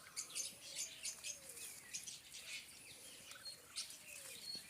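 Birds chirping: many short, high chirps and tweets, faint and scattered.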